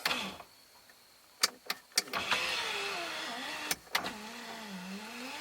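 A Mazda Miata's power-window motor raises the glass on a newly installed window regulator. After a few sharp clicks, a whine starts about two seconds in, its pitch wavering and dipping as the motor works.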